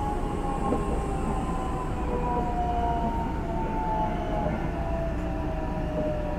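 Toshiba IGBT VVVF inverter of a Hankyu 9000 series electric train whining in several tones that slowly fall in pitch, over the steady rumble of the wheels on the rails. The train is slowing for the next station.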